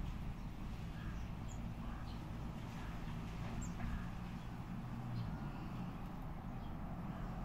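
Small birds giving short, scattered chirps, with a steady low rumble underneath.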